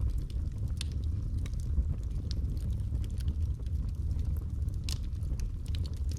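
Wood fire burning in a fireplace: a steady low rumble of flames with scattered sharp crackles and pops, the loudest about five seconds in.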